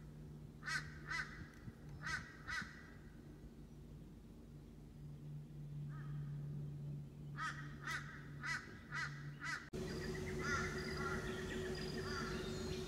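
A bird calling in runs of short repeated calls: two runs of three starting about a second in, then a run of about six near the middle. A low steady hum runs underneath. Near the end the sound changes abruptly to fainter, higher bird chirps over a steady hum.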